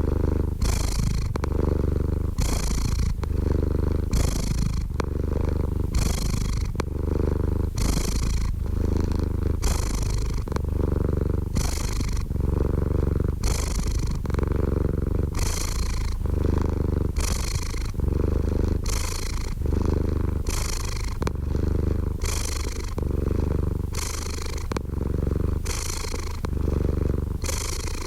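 Domestic cat purring steadily, close up: a continuous low rumble with a rhythmic breathy pulse as it breathes in and out, about every three-quarters of a second.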